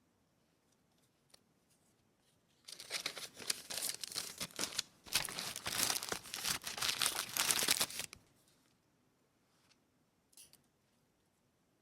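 Paper being torn and crinkled by hand in one spell of about five seconds, starting about three seconds in with a brief pause midway. Faint taps and rustles of handling come before and after.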